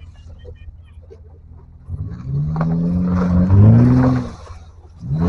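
An off-road 4x4's engine idling low, then revved hard about two seconds in, its pitch climbing before it drops back just after the four-second mark. A second rev starts rising near the end, as the rig has another go at the obstacle.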